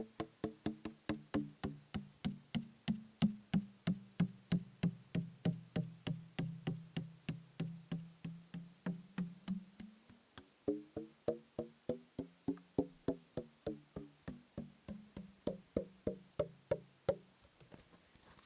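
Fingertips tapping on a liquid-filled plastic bottle in a steady run of about three taps a second, each tap giving a hollow, low ringing tone whose pitch shifts a little as the tapping goes on. The tapping stops shortly before the end.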